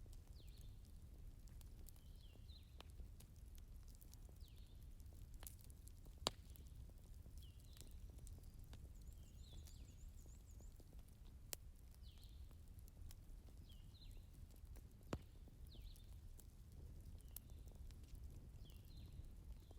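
Firewood burning in a fireplace, faintly crackling: scattered sharp pops and snaps over a low rumble, with three louder snaps, about six, eleven and fifteen seconds in.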